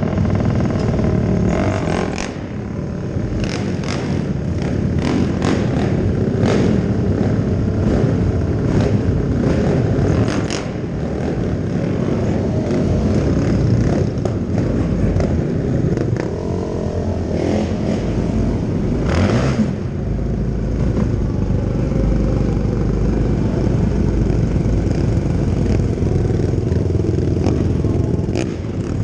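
Several racing quads (ATVs) running hard together, engines revving up and down, with scattered sharp clacks throughout.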